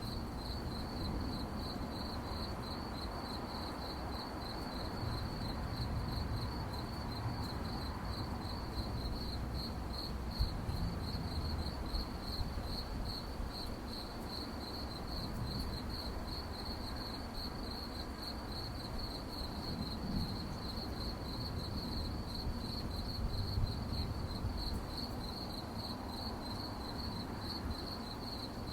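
Crickets chirping steadily in a high, evenly pulsing chorus, over a low background rumble.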